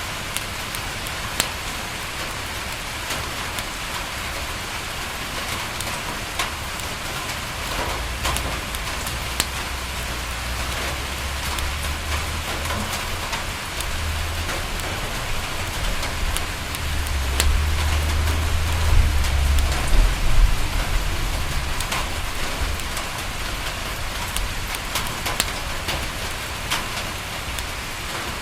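Steady rain falling on a window, with scattered sharp crackles from a wood fire. A low rumble swells from about a third of the way in, is loudest around two-thirds through, then fades.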